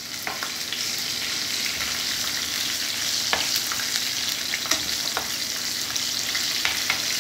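Coated okra pieces and slit green chillies frying in hot oil in a steel pan: a steady sizzle with occasional sharp clicks, as a steel spoon stirs them.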